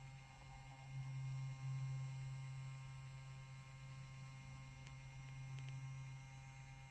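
Low, steady electrical hum with a few faint ticks about five seconds in.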